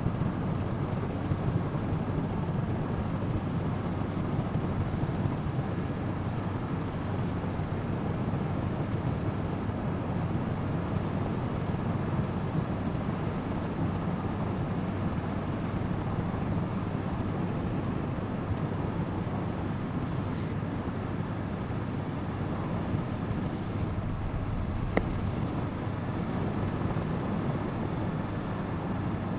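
Steady wind noise rushing over the microphone of a motorcycle rider at cruising speed, with a 2017 Honda CB500F's parallel-twin engine running underneath at an even pitch. One short click about 25 seconds in.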